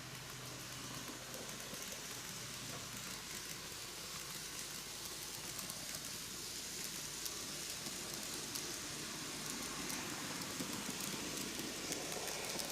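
KATO N gauge C11 steam locomotive model and its coaches running on model track: a steady hiss from the motor and wheels, with many fine rapid clicks, growing slightly louder.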